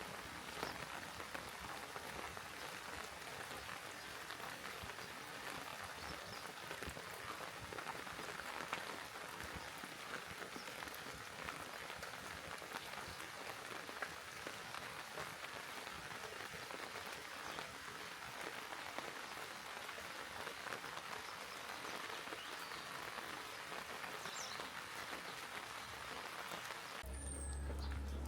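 Steady rain falling, a dense even hiss with scattered sharper drop hits. About a second before the end, the rain hiss drops away and a low hum comes in.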